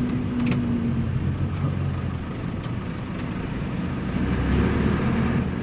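Air-cooled Deutz F4L912 four-cylinder diesel of an Otokar M-2000 minibus running under way, heard from inside the minibus. The engine note dips a little midway and picks up again toward the end.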